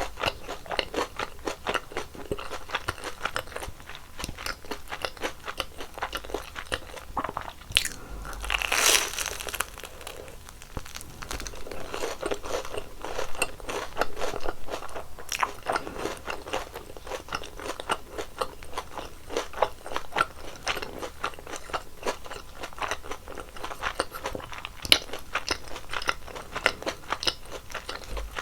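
Close-miked eating of crispy fried twisted doughnuts (kkwabaegi): steady crisp crunching and chewing, with one louder, longer crunch about nine seconds in.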